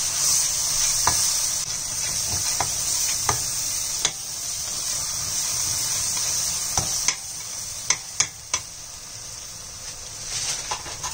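Thick spice masala sizzling in a stainless steel frying pan as it is bhuna-fried, while a metal spatula stirs it and clicks and scrapes against the pan now and then. The sizzle quietens about seven seconds in, and the spatula clicks stop after about eight and a half seconds.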